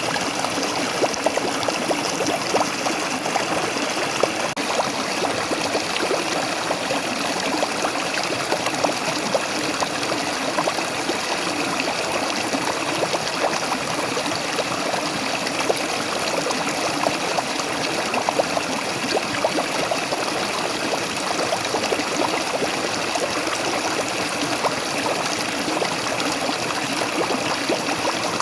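Waterfall and stream water splashing and trickling, a steady rush with many small splashes.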